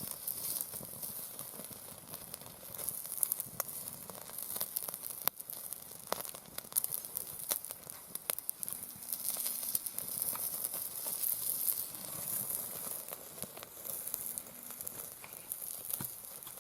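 Sliced pork loin sizzling on a grill over a wood fire in a campfire pit: a steady high hiss with scattered sharp pops and crackles.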